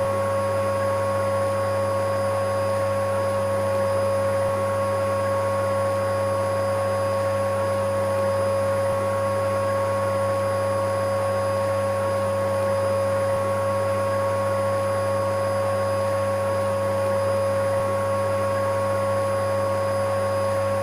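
Electric vacuum cleaner running steadily, an even whooshing motor noise with a strong high whine held at one pitch. A faint click comes about every four and a half seconds.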